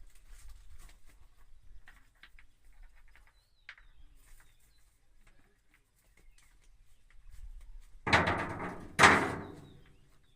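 Two heavy knocks about a second apart near the end, each ringing out briefly, as a concrete Hume pipe is moved during loading. Before them come faint scattered knocks and scrapes.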